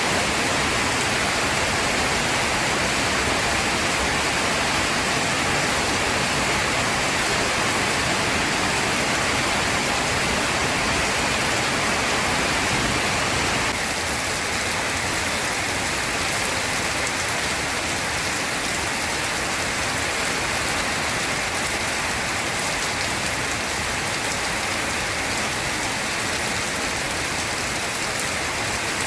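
Heavy rain falling steadily, a dense even hiss of drops with no thunder. About halfway through it turns slightly softer.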